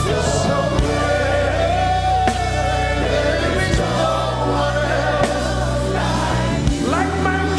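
Live gospel worship music: singing with a choir over sustained band accompaniment.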